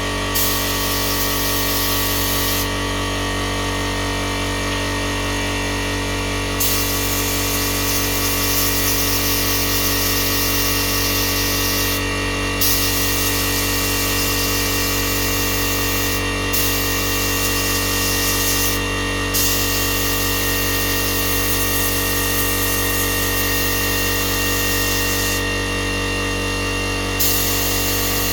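Heat gun running steadily, a motor hum with a high hiss of blown air that cuts out briefly several times.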